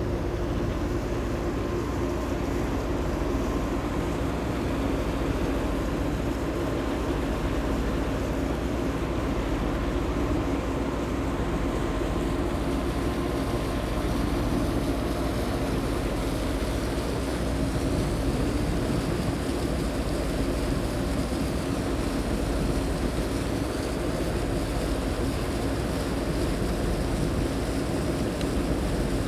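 High-speed passenger boat Sun Liner 2 under way: its engines give a steady drone, over a constant rush of water and wind.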